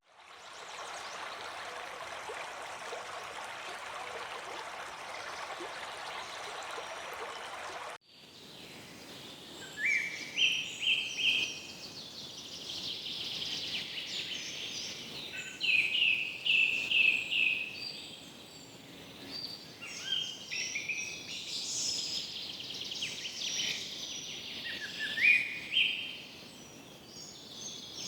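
Steady water noise with no distinct events, cutting off suddenly about eight seconds in. Tropical forest birds then call: repeated rising whistled phrases and higher chirps over a faint background hiss.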